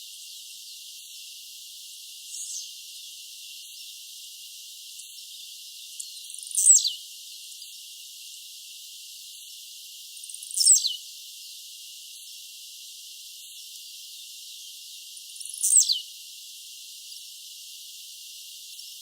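Blue-black grassquit (tiziu) singing its short, high song: a brief note sweeping down in pitch, given three times about four to five seconds apart, with a fainter one about two seconds in, over a steady high hiss.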